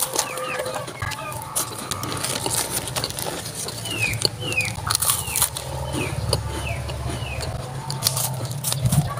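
Close-up crunching and chewing of cream-filled sandwich crackers, a dense run of sharp crackles and clicks. A few short falling chirps from a bird come through near the middle.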